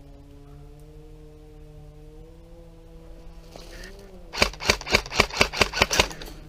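An airsoft gun fired in a quick string of about eight sharp shots, roughly four a second, starting past the middle, over a faint steady hum.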